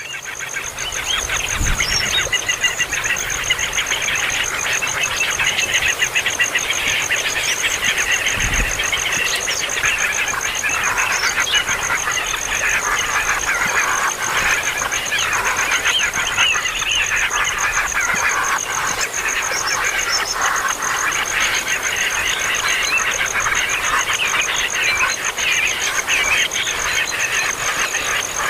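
A brood of baby birds chirping in a constant, dense racket of short high calls.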